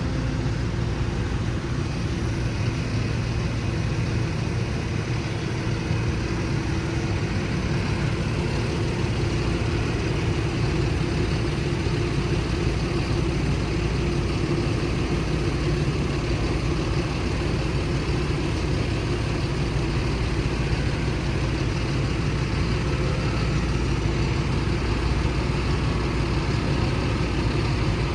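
Heavy vehicle engine running steadily, a low even hum without changes in speed.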